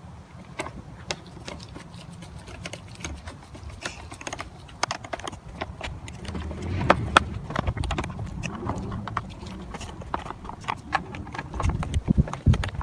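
Irregular small clicks and taps of screws and a screwdriver working against the plastic housing of a Bissell PowerForce Helix upright vacuum as the base-plate screws are reinserted, with a few louder knocks and handling thuds in the middle and near the end.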